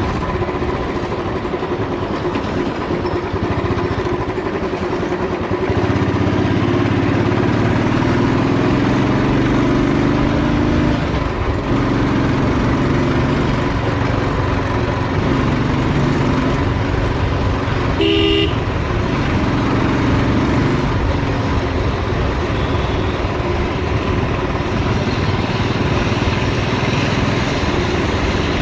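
Old Royal Enfield motorcycle engine running on the road, its note rising in stretches as it accelerates, then dropping as the gears change. A short horn toot sounds about two-thirds of the way through.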